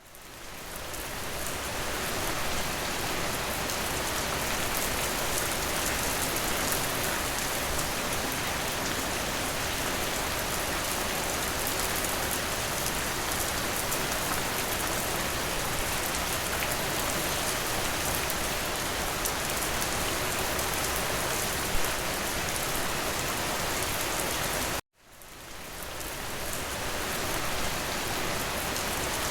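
Steady rain falling, an even hiss of drops on a surface. About 25 s in it cuts out abruptly and fades back up over a couple of seconds.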